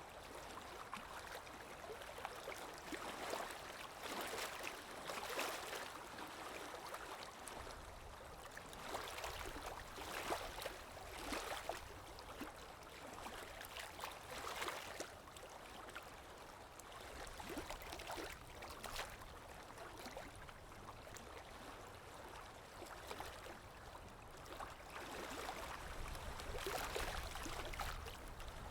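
Recorded ambience of water lapping, in small irregular swells every second or two, with a low wind rumble under it that grows toward the end.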